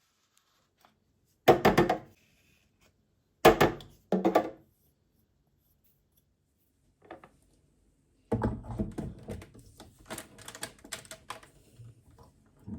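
Household objects being handled and set down on a hard surface: three heavy thunks at about one and a half, three and a half and four seconds in, then a run of lighter knocks and clatter from about eight seconds in.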